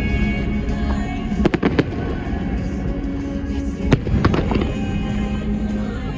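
Fireworks going off in sharp bangs, a pair about a second and a half in and a quick cluster around four seconds in, over the show's music soundtrack.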